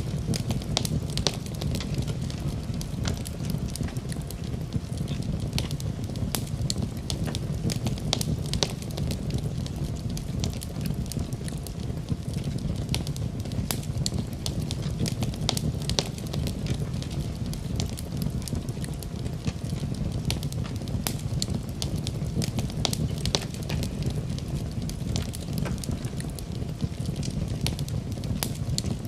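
Wood fire crackling in a fireplace: many small, sharp, irregular pops and crackles over a steady low rumble of the burning fire.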